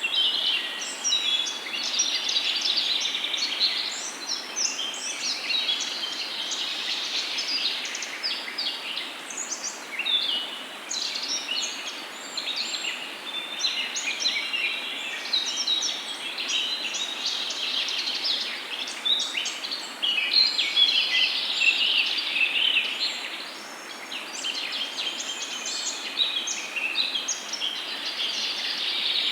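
Many songbirds chirping and singing at once in a dense, continuous chorus of short, high calls and trills, over a faint steady background hiss.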